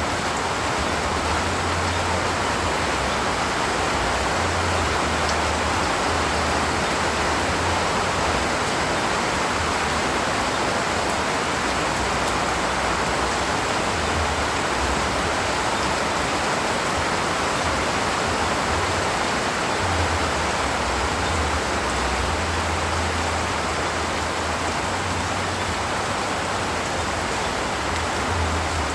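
Steady rain falling in a forest: an even, unbroken hiss with no single drops standing out, over an uneven low rumble.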